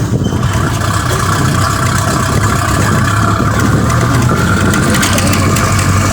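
An engine running steadily with a constant low hum and a broad noise on top, like a vehicle heard from close by.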